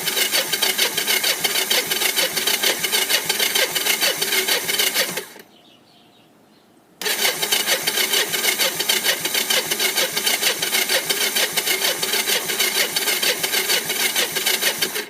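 Kawasaki three-wheeler's cold engine cranked on its electric starter with the choke on, turning over in a fast even rhythm without catching. It cranks for about five seconds, stops briefly, then cranks again for about eight seconds. This is a cold, long-unused engine in freezing weather that will not start.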